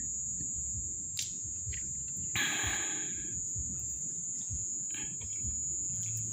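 Kindling and sticks being handled and set in place for a campfire: a sharp click about a second in, then a short rustle a second later, over a low rumble and a steady high-pitched tone.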